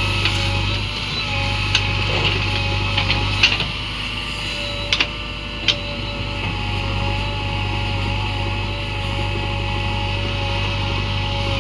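JCB 3DX backhoe loader's diesel engine running steadily under load, with a handful of sharp metallic clanks, several of them in the first six seconds.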